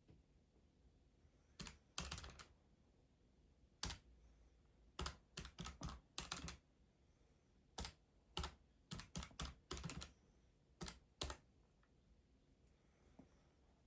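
Keys being typed in short, irregular runs of sharp clicks, with pauses of a second or more between the runs, over a quiet room.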